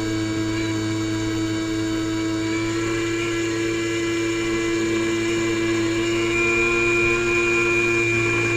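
Airboat's engine and air propeller running steadily, with a slight swell in loudness a few seconds before the end.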